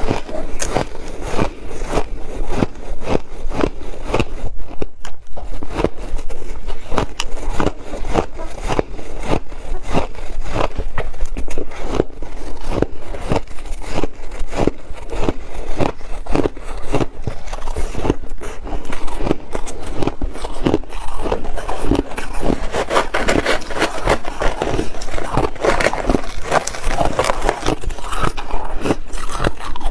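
Ice being bitten and chewed close to the microphone: a dense, continuous run of crunches and crackles, somewhat louder in the last third.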